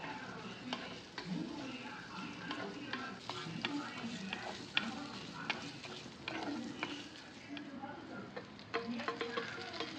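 Shallots, garlic and curry leaves frying in oil in a clay pot, sizzling while a wooden spatula stirs them and knocks lightly against the pot, with many small taps.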